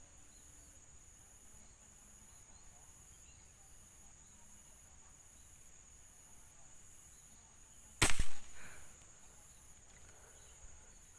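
PCP air rifle fired once about eight seconds in: a sudden sharp report with a quick second crack, fading within about a second. Insects keep up a steady high-pitched buzz underneath.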